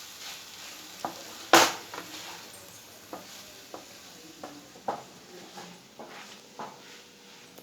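Chicken and vegetable momo filling being stirred in a hot pan, the utensil scraping and knocking against the pan about a dozen times at an uneven pace over a faint sizzle; the loudest knock comes about one and a half seconds in.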